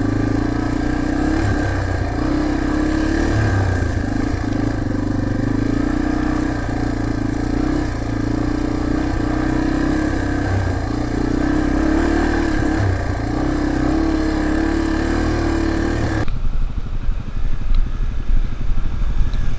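Dirt bike engine running steadily at mid revs under load on rough trail, its pitch dipping slightly now and then. About sixteen seconds in the sound changes abruptly to a duller, choppier engine noise.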